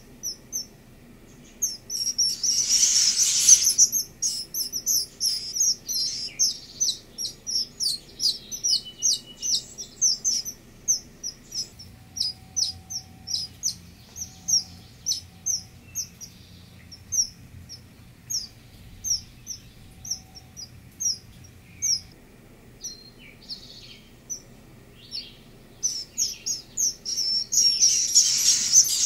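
Eastern kingbird nestlings calling with many short, high chirps, breaking twice into dense bursts of begging: once about two seconds in and again near the end.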